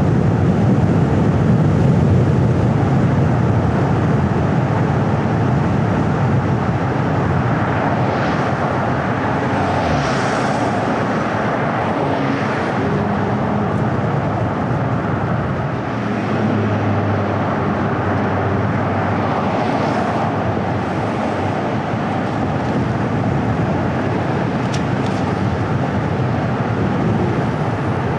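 A car driving along a road: steady tyre and engine noise with a low rumble, with swells of louder hiss about eight to twelve seconds in and again around twenty seconds.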